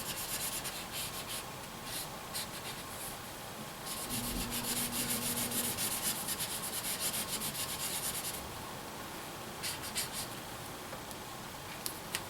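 A marker scribbling on paper in fast back-and-forth colouring strokes, busiest from about four to eight seconds in.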